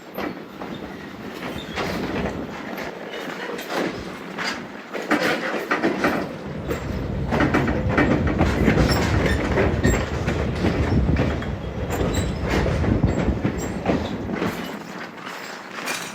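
Train wheels rolling slowly over jointed track, with repeated clicks and knocks over a rumble. The sound grows louder to a peak in the middle and eases off near the end, as when rolling stock passes by.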